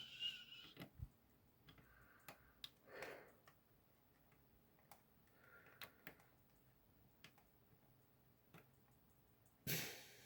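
Near silence with scattered faint clicks and taps of small screws and parts being handled, and a short rustle near the end.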